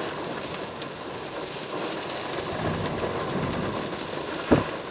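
Heavy thunderstorm rain falling steadily on a car's roof, heard from inside the car, with one short thump about four and a half seconds in.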